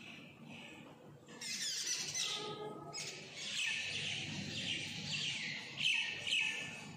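Small birds chirping and twittering in rapid, high falling notes, in two spells: one starting about a second and a half in, and a longer one from about halfway to near the end.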